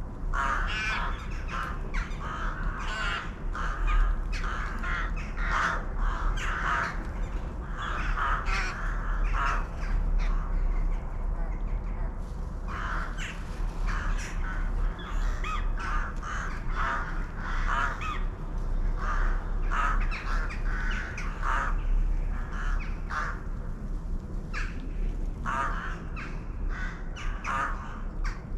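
A group of birds calling, short calls following one another in quick, overlapping succession, over a steady low rumble.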